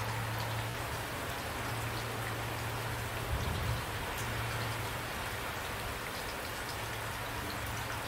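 Steady rain falling, with many individual drops striking a surface, and a brief low thump about three and a half seconds in.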